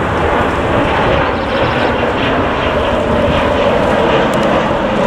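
Jet airliner engines running loud and steady.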